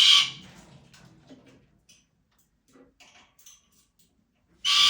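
A pet bird squawks loudly twice, once at the start and once near the end, with faint clicking and tapping sounds between.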